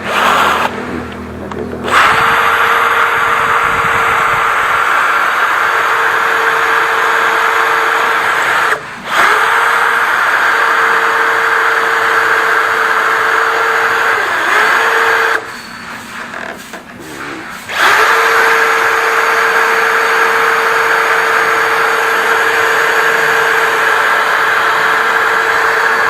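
Power drill running at a steady speed, boring dowel holes in wood, its motor whine holding one pitch. It stops briefly about a third of the way in, then pauses for about two seconds past the halfway point before running on. The drill is on its low-speed setting 1, which the owner then finds should have been 2.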